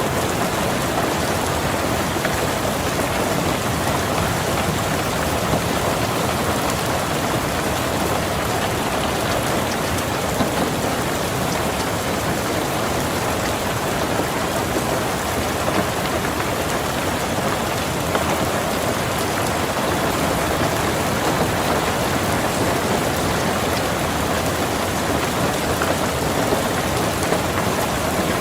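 Steady heavy rain falling on a car's roof and windows, heard from inside the car: an even hiss with scattered individual drop taps.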